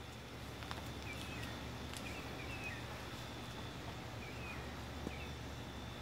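Small bird chirping in short, high twittering clusters, several times, over a steady low outdoor rumble.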